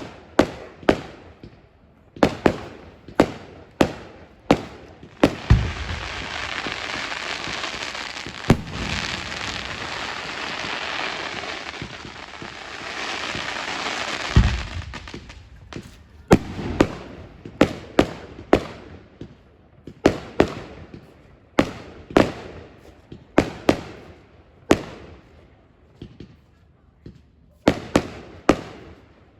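Fireworks display: a run of sharp bangs, each with a short echo, then from about five seconds in a dense crackling hiss lasting about nine seconds, opened and closed by deep booms. After it, single bangs resume at irregular intervals.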